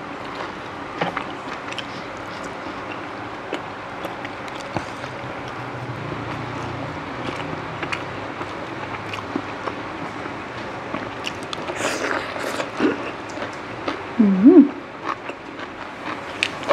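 Close-up chewing and crunching of crisp raw vegetables and pounded long-bean salad, scattered crunches over a steady background rumble of traffic. About fourteen seconds in, a brief hummed vocal sound rises and falls in pitch and is the loudest moment.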